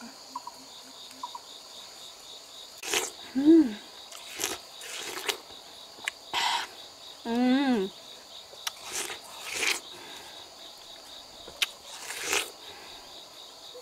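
Insects chirring steadily in the background, a high drone with a fast pulse. Two short voice exclamations come about three and a half and seven and a half seconds in, among scattered sharp clicks and rustles.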